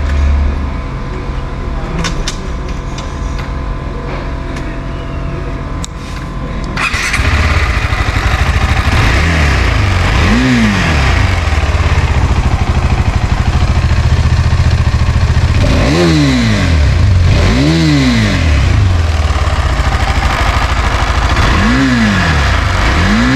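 KTM 390 Adventure's 373cc single-cylinder engine running, much louder from about seven seconds in, then blipped on the throttle about five times, each rev rising and falling quickly.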